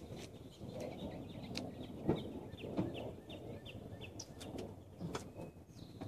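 A small bird chirping: a quick run of short, high, falling notes, about four a second, for a couple of seconds midway, with a few faint clicks.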